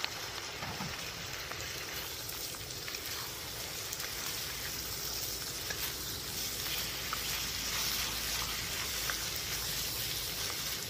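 Chicken leg pieces frying in hot oil with onion, ginger and garlic: a steady sizzle, with a few faint clicks.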